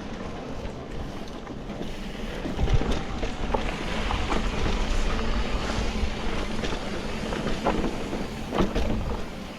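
Wind rushing over the microphone of a camera riding along on a moving bicycle, with scattered knocks and rattles. The rush grows louder about two and a half seconds in.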